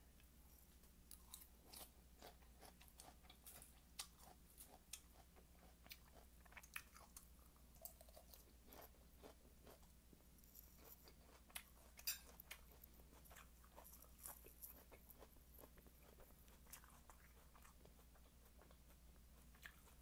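Faint, close-up chewing and crunching of crisp lettuce, with irregular short crunches throughout and a sharper crunch about twelve seconds in.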